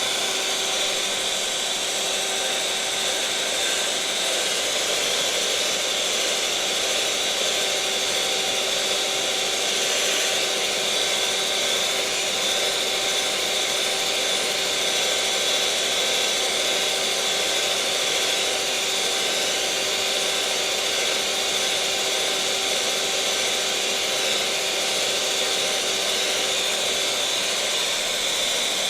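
Electric mixer motor running steadily at one speed: a continuous whir with a constant hum.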